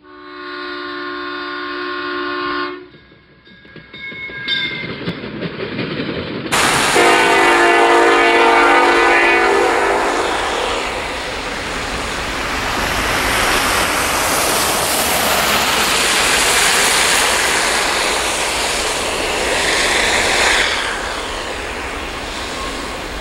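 A held multi-note horn chord for about three seconds, then, some seven seconds in, a diesel locomotive's multi-chime air horn sounds for about three seconds. The steady rumble and rattle of the Norfolk Southern double-stack freight train's cars rolling past follows.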